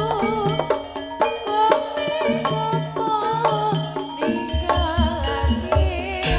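Jaranan accompaniment music: a percussion ensemble of drums and pitched struck instruments playing a steady rhythm, with a wavering high melody line above it.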